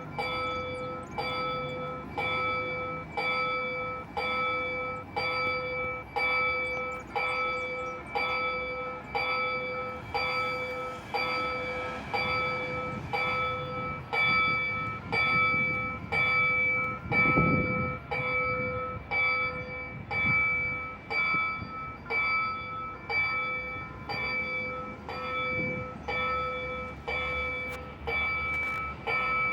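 Level-crossing warning bell ringing steadily, about one strike a second, signalling that a train is approaching. A low rumble swells and fades about halfway through.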